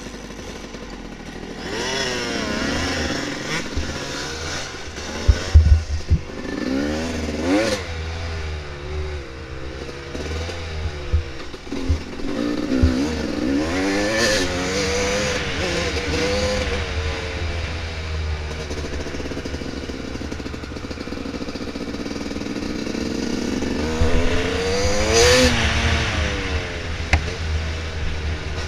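Dirt bike engine revving up and down repeatedly as it rides a trail. A few loud knocks come about five to six seconds in, over a steady low rumble.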